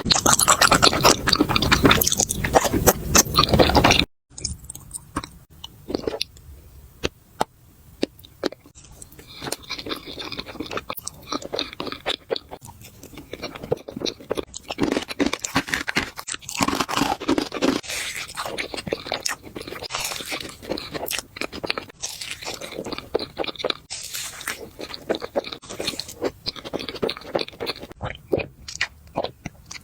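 Close-miked eating, as in a mukbang: loud, dense crunching for the first four seconds. After a brief break, it goes on as quieter, irregular chewing with scattered crisp clicks and crunches.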